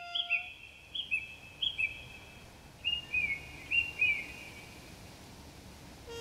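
Bird calls: a short two-note chirp repeated about four times, then a run of down-slurred whistled notes, over a faint outdoor hiss. A held trumpet note fades out just at the start.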